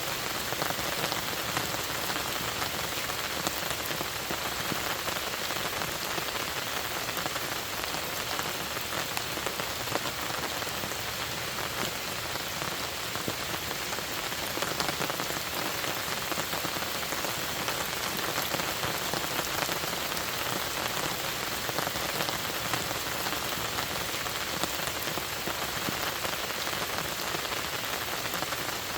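Steady rain falling, a dense even patter of drops with no change over the stretch.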